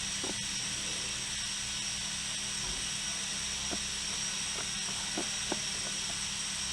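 Steady hiss of compressed air feeding a pneumatic differential pressure transmitter under test, with a few faint clicks in the second half.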